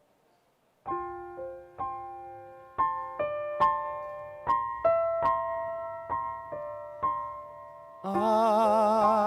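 Solo piano introduction: gentle chords struck roughly once a second, each ringing and fading. Near the end a singer's voice with vibrato comes in over the piano.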